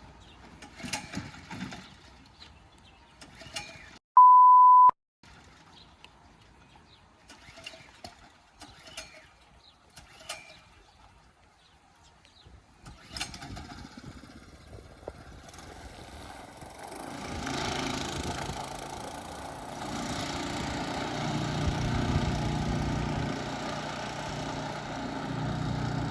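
Scattered clicks and knocks, broken about four seconds in by a loud one-second edit bleep, the loudest sound here. Then, from about 13 seconds in, a small gas mud motor on a boat starts up and runs steadily, growing louder from about 17 seconds in.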